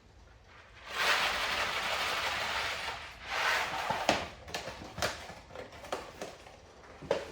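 Dry pasta noodles rattling as they are poured out for the pot, a dense rush lasting about two seconds, then a shorter pour and a few sharp knocks of the box or pot.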